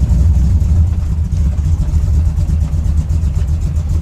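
Cold truck engine idling in gear against a 3000 rpm stall converter, a steady low rumble with no revving.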